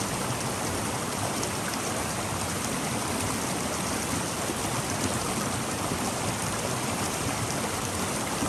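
A stream of running water, a steady even rush with no breaks.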